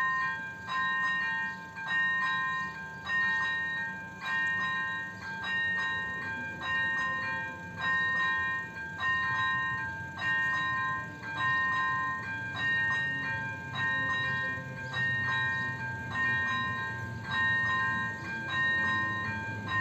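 Electronic warning bell of an AŽD 97 level crossing ringing steadily, about one strike a second: the crossing is active and a train is due. A low rumble grows beneath it in the second half.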